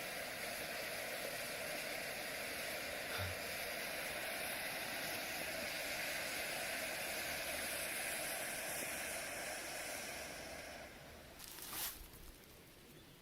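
Steady hiss of a burning firework, which dies away after about ten seconds, followed by a short sharp click near the end.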